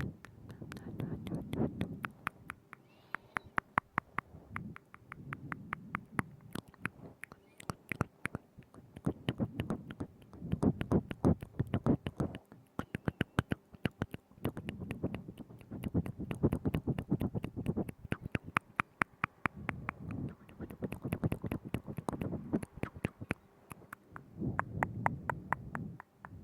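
Wet mouth sounds right at the microphone: quick clicks and smacks of tongue and lips, many per second, coming in waves every couple of seconds with a low muffled rumble underneath.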